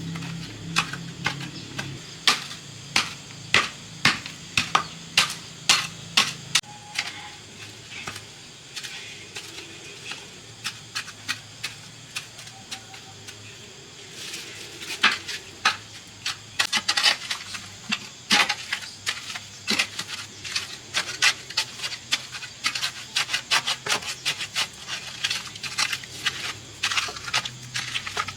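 A run of sharp, irregular taps and knocks, hard objects striking each other, about one or two a second at first and coming quicker and denser from about halfway. A low steady hum sits under the first few seconds.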